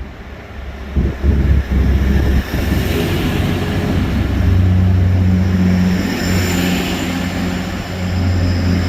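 Class 180 Adelante diesel multiple unit departing, its diesel engines running with a steady low drone that grows louder about four seconds in, under a broad hiss and a faint high whine.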